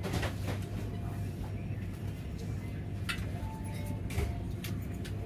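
Steady low hum inside a Vande Bharat Express coach while it runs, with scattered light clicks and knocks.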